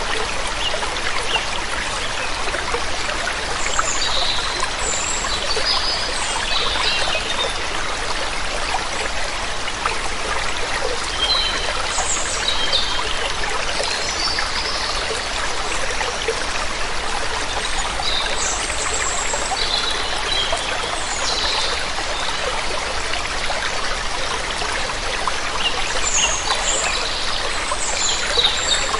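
Steady rush of a waterfall, with small birds giving short high chirps and calls scattered throughout.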